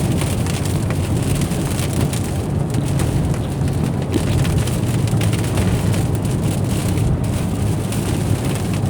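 Steady road and engine noise heard inside a car's cabin while driving, with rain pattering on the car.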